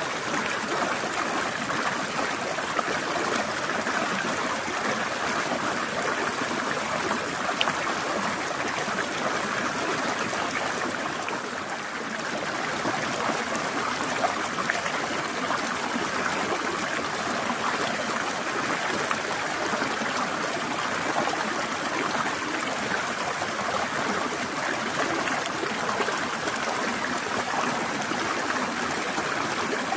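Forest stream flowing steadily, water trickling and splashing over rocks, with a brief slight dip in the flow about twelve seconds in.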